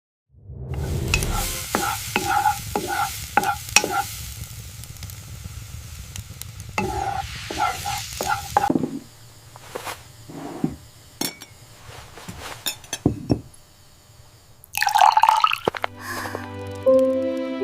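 Food sizzling in a pan, with sharp clinks and scrapes of a utensil stirring, loudest in the first half and thinning to scattered clicks. A louder burst comes near the end, and soft music then comes in.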